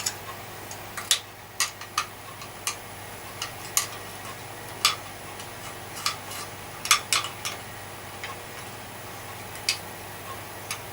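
Small hard parts clicking and tapping as they are handled and worked by hand: sharp, irregular clicks, some close together, over a faint steady low hum.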